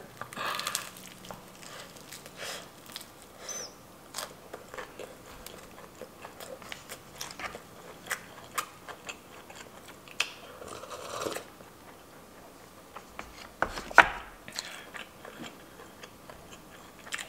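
Close-miked chewing of crispy fried chicken, with wet smacking and small crunches of the breaded skin. There is one sharp knock about 14 seconds in.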